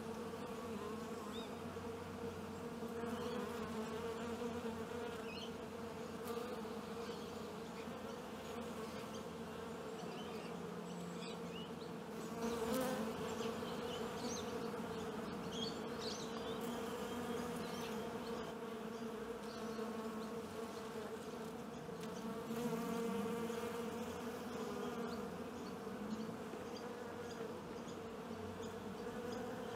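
Many honeybees buzzing together in a steady hum. It swells louder about twelve seconds in and again a little after twenty-two seconds.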